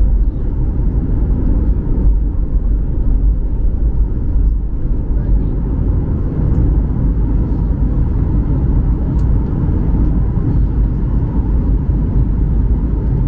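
Steady low rumble inside the cabin of a Boeing 737-800, its engines and airflow running evenly with no change in level.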